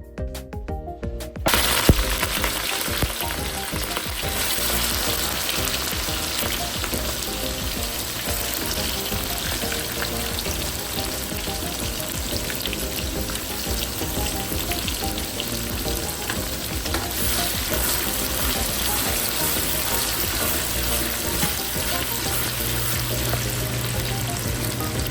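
Food frying in a hot pan, a steady loud sizzle that starts about a second and a half in, with a sharp clatter just after it begins.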